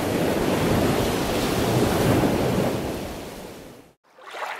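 Steady rushing water noise, like surf, that fades out near the end and drops to a brief silence.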